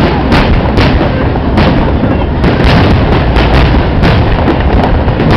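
Aerial fireworks bursting in quick succession, many sharp bangs a second over a constant loud low rumble.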